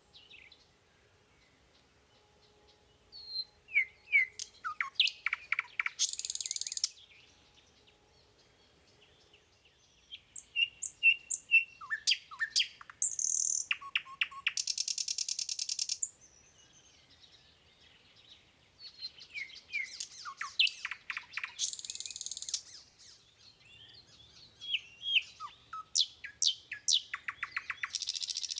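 Birds chirping in repeated bouts of quick falling chirps, fast trills and short harsh buzzy calls, with quiet pauses between bouts.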